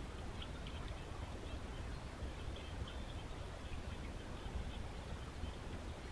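Steady outdoor background noise with a low rumble, and a few faint, short high ticks scattered through it.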